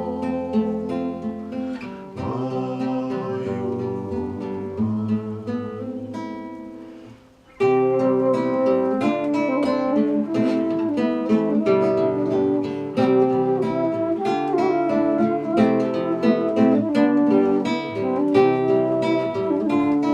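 Instrumental playing of a song on a plucked string instrument: long ringing notes that die away about seven and a half seconds in, then a brisk run of quick plucked notes.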